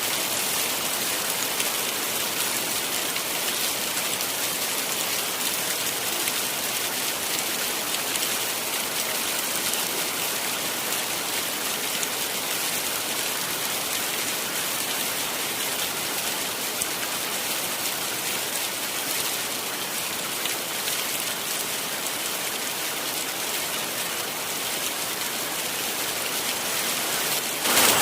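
Heavy rain falling steadily, a dense even hiss of drops on surfaces. Just before the end it suddenly turns louder.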